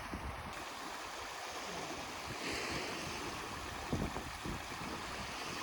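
Steady rush of wind and sea water, with wind gusting on the microphone about four seconds in.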